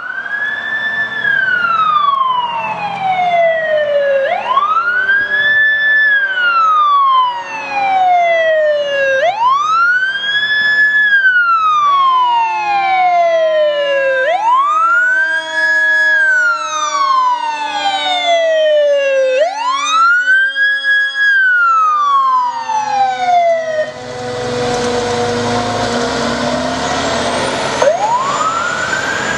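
Fire engine siren sounding a wail: about five slow cycles, each rising quickly and then falling slowly, with a fainter falling tone beneath. Late on, a loud rushing noise takes over, and the wail rises once more near the end.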